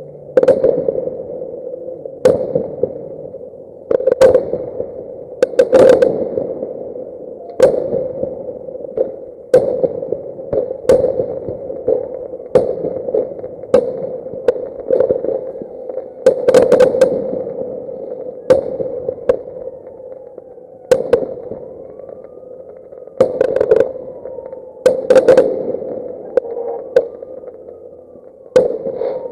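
Fireworks going off, a run of sharp bangs about every one to two seconds, each with a short fading tail, over a steady hum. The audio plays at double speed.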